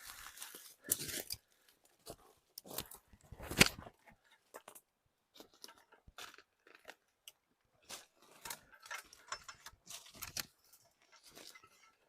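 Twigs and dry branches snapping and leaves crackling underfoot as someone pushes through brush and over a blowdown. The crunches come in an irregular run, with one sharp, loud snap about three and a half seconds in.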